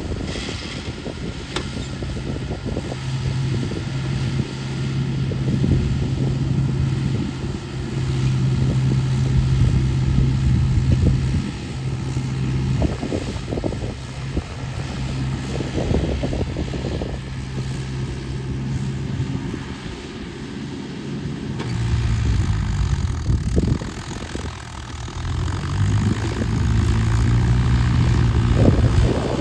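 Swaraj tractor's diesel engine running under load, revs rising and falling in several surges as the stuck tractor strains, with the pitch dropping and climbing again in the last third.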